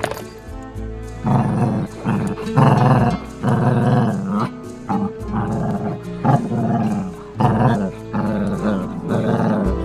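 A Jack Russell Terrier growling in repeated short bursts, over background music.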